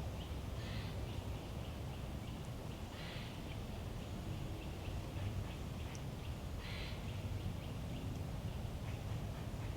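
Woodland ambience: a harsh bird call three times, a few seconds apart, over a steady low rumble, with faint high chirps of small birds in between.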